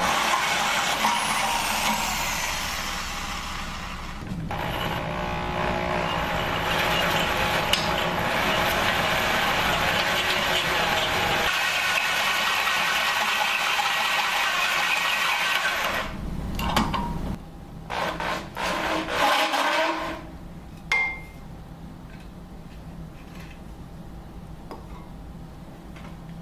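Steady machine noise of a power tool working metal, which stops about 16 seconds in; a few short, louder knocks and rattles follow, then a quieter steady hum.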